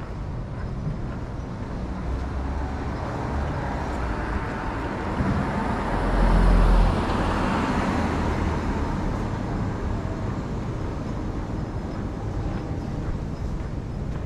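A motor vehicle passes close by on a city street, its noise swelling to a peak with a deep rumble about six to seven seconds in and then fading away, over steady traffic background.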